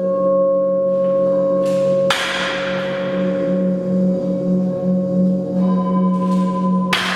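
Resonant metal percussion ringing with steady, slowly wavering tones, struck with a splashy, cymbal-like hit about two seconds in and again near the end, each hit ringing on as it fades.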